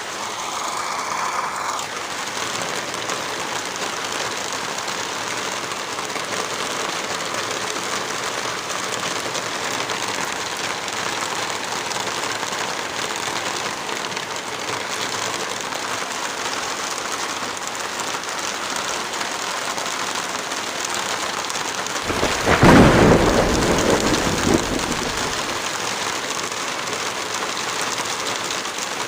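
Heavy rain falling steadily in a dense, even hiss. About 22 seconds in, a loud low rumble swells up over the rain for about three seconds, then fades.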